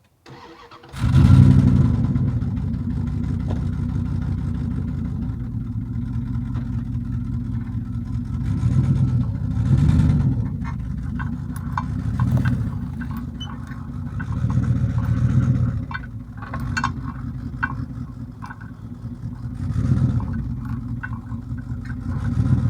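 An engine starts up suddenly about a second in and keeps running, its revs rising and falling several times, with some scattered clicking and clatter over it.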